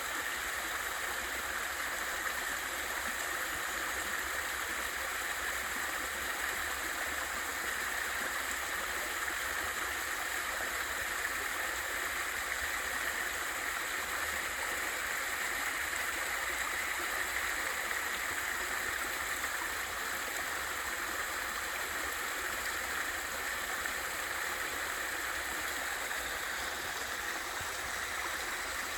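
Water from a small waterfall rushing steadily into a valley stream.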